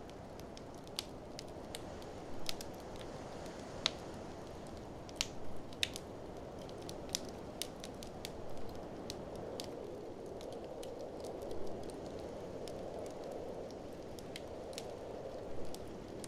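Wood fire in a fireplace crackling, with irregular sharp pops scattered throughout, over a steady rushing noise of blizzard wind that swells a little past the middle.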